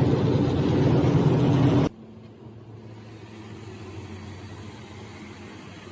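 Six-roll wood sanding machine running with a loud, dense noise. It drops suddenly about two seconds in to a much quieter steady hum.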